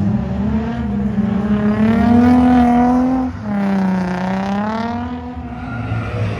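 A car engine revving: the revs climb sharply and are held high for about three seconds, cut off abruptly, then swell again before easing off toward the end.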